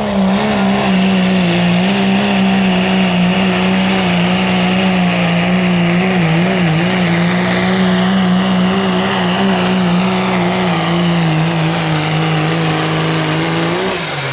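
Diesel engine of a 4WD Dodge pickup in the 2.6 diesel class, running at full throttle, holding a high, nearly steady pitch as it drags a pulling sled. It wavers briefly partway through, then falls away at the end as the driver lets off.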